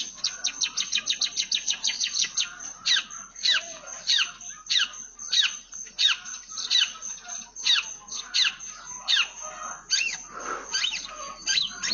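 Long-tailed shrike (cendet) singing a run of sharp, falling chirps in imitation of Eurasian tree sparrow calls. A fast rattle of chirps over the first couple of seconds gives way to slower single chirps, about one or two a second.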